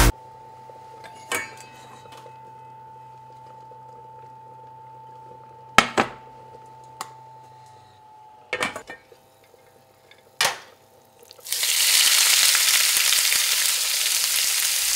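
A few sharp clinks and knocks of cookware over a faint steady hum. Then, about eleven seconds in, diced raw salmon is tipped into hot oil in a frying pan and starts to sizzle loudly and steadily.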